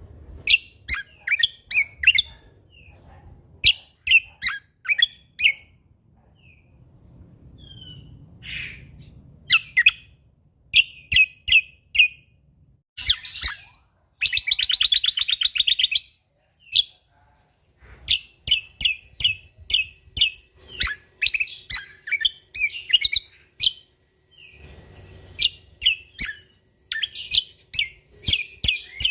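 Cucak kombo (kecial kombok) songbird singing: volleys of short, sharp, high chirping notes, with a fast, dense rattling trill about halfway through and a couple of brief pauses.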